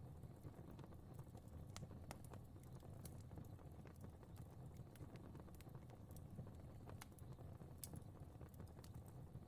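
Faint crackling fire: irregular sharp pops and snaps, several a second at most, over a steady low rumble of burning.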